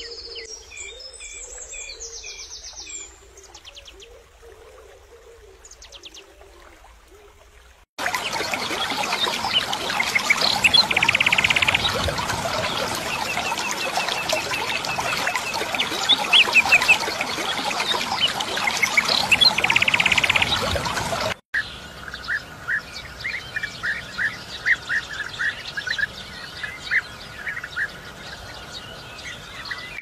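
Small songbirds chirping and calling in three short back-to-back recordings. From about eight seconds in to about twenty-one seconds the sound is louder, with a steady hiss under the chirps; the last part is a run of short, quick repeated chirps.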